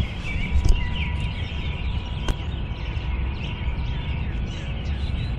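Small birds chirping and twittering over a steady low rumble, with a single sharp click a little past two seconds in.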